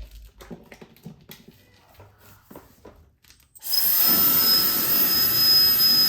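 A few faint clicks and handling sounds, then a little over halfway in the GAMA Italy IQ Perfetto hair dryer switches on and runs steadily: a rush of air with a steady high whine. Not super loud for a hair dryer, with a powerful airflow.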